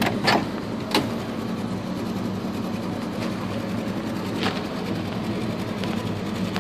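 1977 Pontiac Trans Am's V8 idling steadily. A few sharp clicks and knocks come in the first second and one more about halfway.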